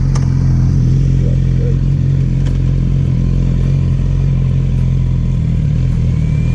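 Motorcycle engine running at a steady, unchanging pitch, loud and close.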